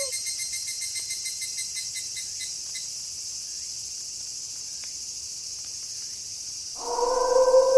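Crickets chirping in a night ambience, in quick pulses for the first few seconds and then as a steady high trill. About a second before the end a wolf starts a long, level howl.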